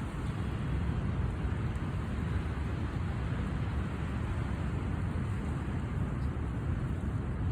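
Mississippi River floodwater rushing through the Coon Rapids Dam at a record-high level: a steady, deep rushing noise with no breaks.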